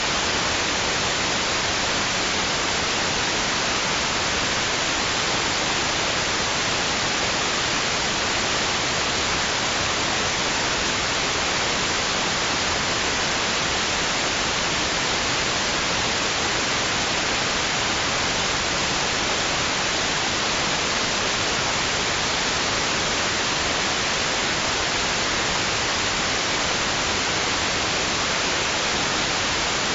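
Steady white noise: an even, bright hiss that never swells or changes.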